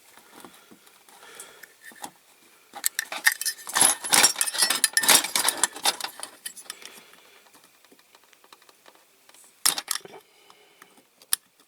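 A tool prying and scraping at the bent-over metal tabs holding the levers on a diecast Dinky Toys Blaw Knox heavy tractor, giving small metallic clicks and scrapes. They come thickest and loudest in the middle, with two sharp clicks near the end.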